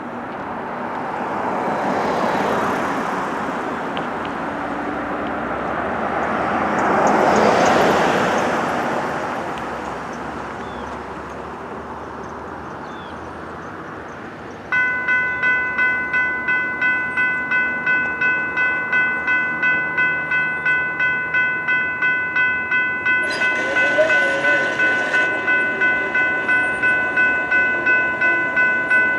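Two road vehicles pass, each rising and fading. About halfway through, the grade-crossing signals activate and the crossing bell starts ringing steadily at about two strokes a second. A brief louder rushing sound cuts in over the bell for a couple of seconds near the end.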